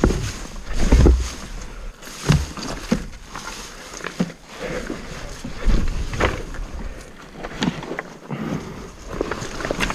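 Irregular knocks, scuffs and scrapes of a heavy dirt bike being manhandled around on a rocky slope with its engine off.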